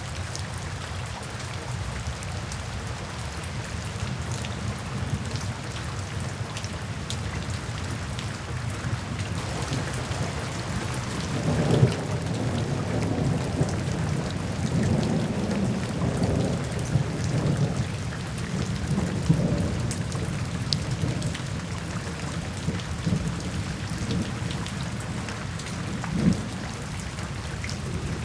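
Steady rain falling, with rolling thunder rumbling through the middle, loudest about a third of the way in, and a shorter rumble near the end.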